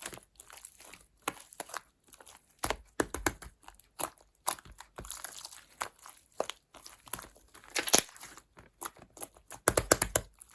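Irregular crinkling and crackling of something handled close up, in short clusters of clicks, with louder bursts near the end.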